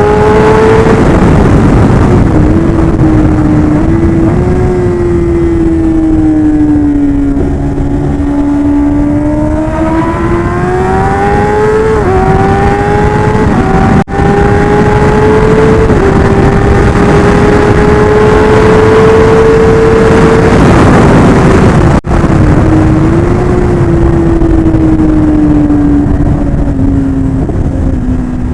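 Kawasaki ZX-10R's inline-four engine running at high revs under riding: its pitch climbs and falls, dropping suddenly at upshifts about 12 and 16 seconds in, over heavy wind rush. The sound cuts out for an instant twice.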